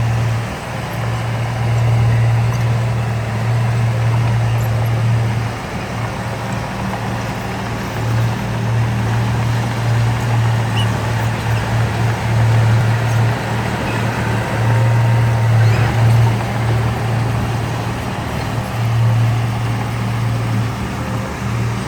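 Heavy diesel engine of earthmoving machinery running, a steady low drone that swells and dips.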